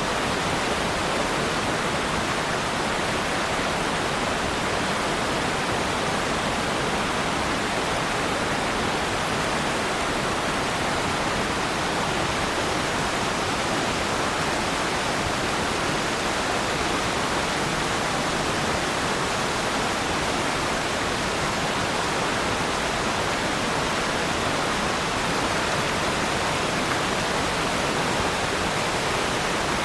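Waterfall: water falling and splashing in a steady rush without pauses or changes.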